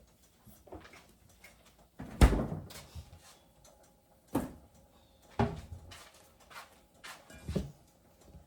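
Kitchen knocks and thumps from things being handled and set down, the loudest about two seconds in, with three or four lighter knocks after it.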